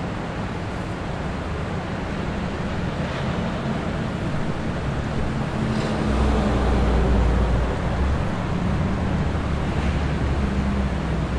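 Wind rumbling on the microphone outdoors, a steady low buffeting that swells into a stronger gust about six seconds in.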